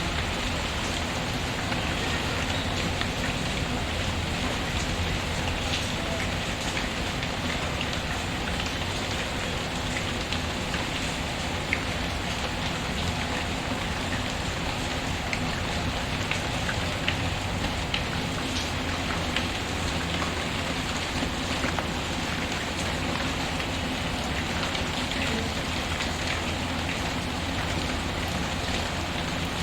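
Steady rain patter mixed with a wood fire in a fireplace, with scattered sharp crackles and pops over the even rain.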